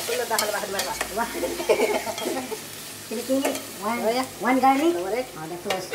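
Chicken and tomatoes sizzling as they fry in an aluminium pot, stirred with a metal spoon that scrapes and knocks against the pot a few times. A voice talks over the sizzle.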